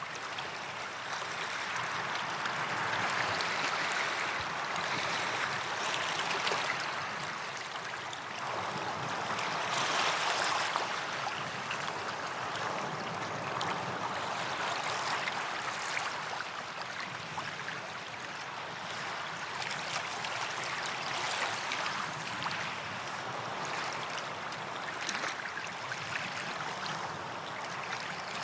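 Small sea waves washing up a sandy beach and drawing back, swelling and easing every five or six seconds.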